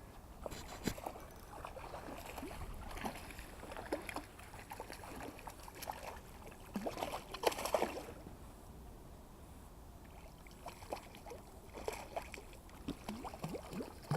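Water splashing and gurgling in irregular small bursts, with a louder splash about seven and a half seconds in.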